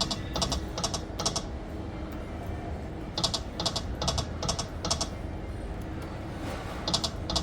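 Electronic pokie machine's short clicking sound effects, coming in quick pairs and small clusters every half second to couple of seconds, over a steady low hum of the gaming room.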